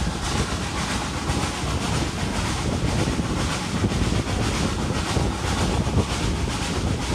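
Hunslet Austerity 0-6-0 saddle-tank steam locomotive working hard under load, its exhaust beating in a steady chuffing rhythm.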